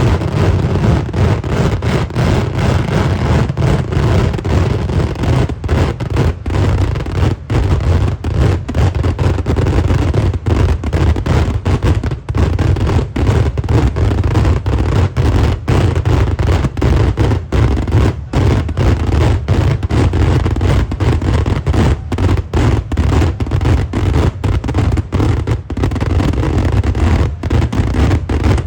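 Kerala temple-festival fireworks (vedikkettu): a dense, unbroken barrage of explosions, the blasts running together into one continuous deep rumble with only brief dips.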